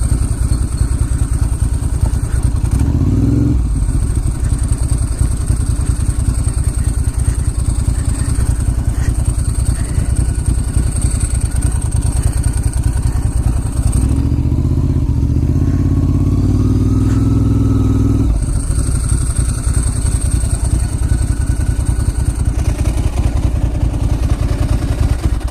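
Ducati Monster S2R 1000's air-cooled L-twin engine running at low speed. It gets louder and rises a little in pitch for a few seconds about halfway through.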